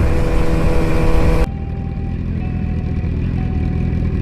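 Motorcycle engine running. A loud rushing noise over it cuts off abruptly about a second and a half in, leaving a steady low engine rumble.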